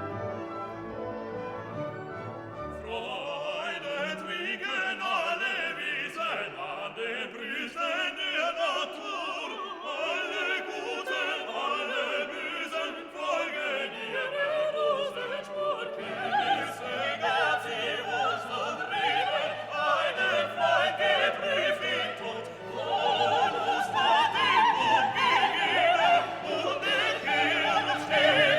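Classical choral music: an orchestra with a choir and operatic voices singing. It grows fuller about three seconds in and swells again near the end.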